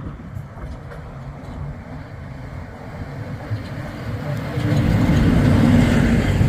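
Locomotive rumbling past, growing sharply louder about two-thirds of the way through, with a steady low hum over the rumble.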